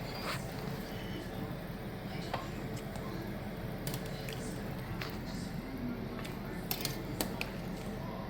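Kitchen handling sounds: a few light clicks and clinks of utensils and cookware over a steady background hiss.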